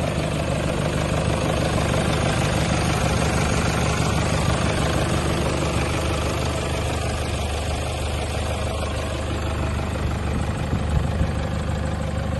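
Toyota Hilux 3.0-litre four-cylinder turbo-diesel engine idling steadily.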